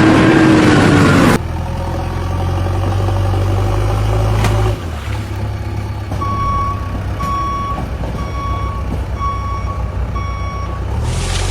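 Heavy vehicle's engine running with a low steady hum, after a loud rushing noise that cuts off suddenly about a second in. In the second half, a reversing alarm beeps six times, about one beep every three-quarters of a second.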